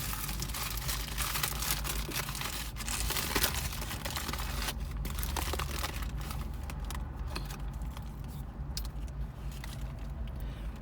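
Paper burger wrapper crinkling and rustling with many sharp crackles as a Whopper is unwrapped and handled, over a low steady hum.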